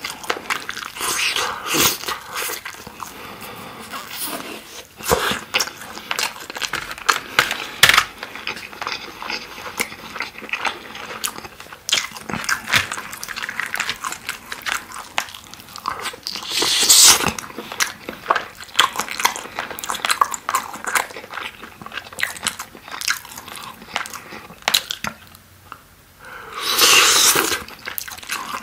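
Close-up chewing and biting of sauce-glazed grilled chicken skewers: dense, irregular wet smacking and sticky clicks of meat being pulled off bamboo sticks and chewed with an open mouth. Two longer, louder hissing sounds come about halfway through and near the end.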